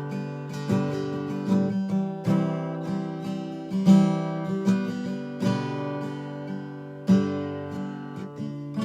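Acoustic guitar strummed, chords ringing out with a fresh strum about every second and the chord changing several times.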